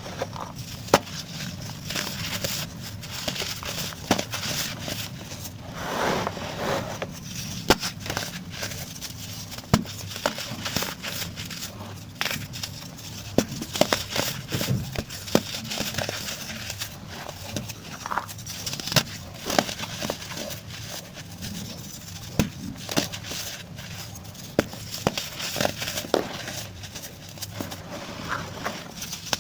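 Pressed baking soda crumbling and being crushed, with irregular crisp crunches and crackles.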